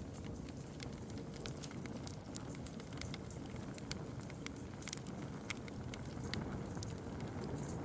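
Campfire crackling: irregular sharp pops and snaps, a few each second, over a steady low rumble.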